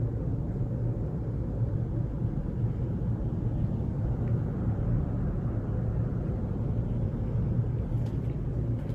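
Steady low rumble with no clear source, with a faint tick about four seconds in and another near the end.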